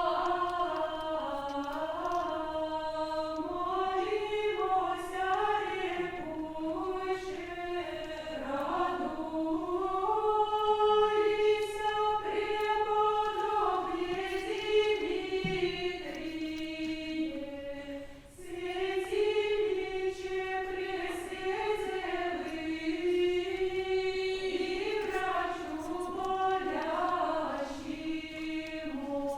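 A choir singing Old Russian chant without instruments, in long held notes that move within a narrow range. There is a short pause for breath about 18 seconds in.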